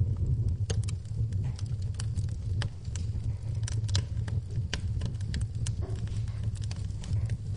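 Wood fire in a fireplace crackling, with frequent sharp snaps and pops at irregular intervals over a steady low rumble.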